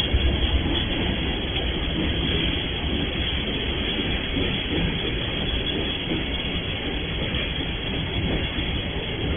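Freight train passing close by: a steady rumble of locomotives and wagons rolling over the rails, with some clickety-clack from the wheels.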